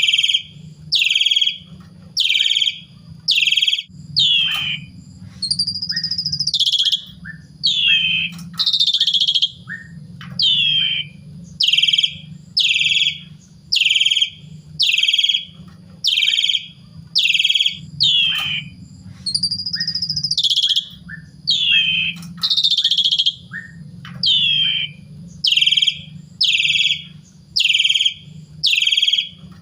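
Javan pied starling (jalak suren) calling: a loud, rapid string of short downward-sweeping notes, more than one a second, broken twice by longer warbling phrases, about five and nineteen seconds in. A low hum runs underneath.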